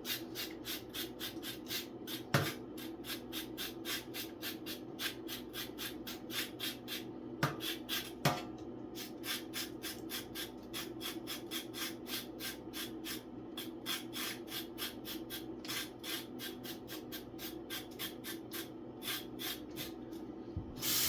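A carrot being grated on a hand grater: steady rasping strokes, about three a second, with a few louder knocks along the way.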